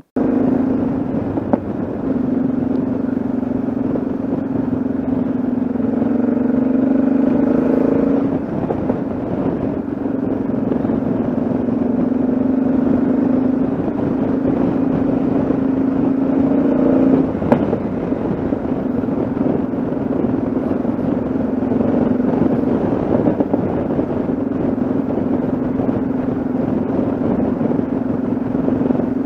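Yamaha XT660Z Ténéré's single-cylinder engine running steadily while riding, with a steady hum. The pitch rises a little about six seconds in and again near seventeen seconds, then settles back.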